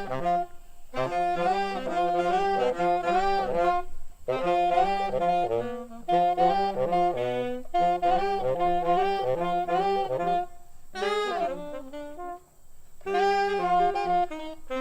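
Jazz saxophone playing a melody in quick phrases, with short pauses between them and a lower note line moving beneath.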